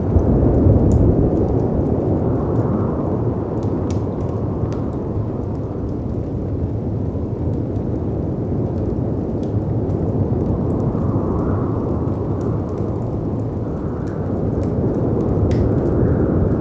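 Layered storm ambience: a low, continuous wash of howling wind and crashing sea waves that swells and eases every few seconds, with a handful of sharp pops from a crackling fireplace scattered through it.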